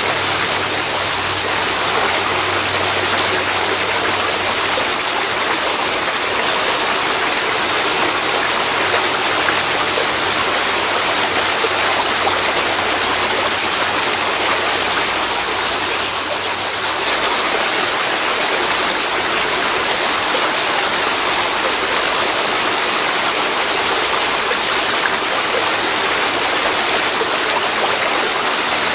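Waterfall pouring into a river: a loud, steady, even rush of water.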